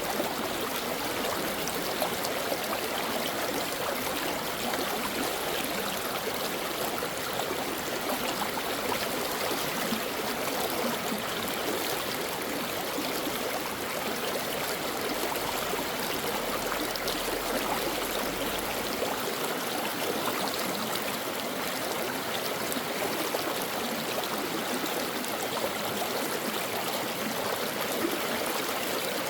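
Mountain stream water flowing and babbling over rocks, a steady, even rush.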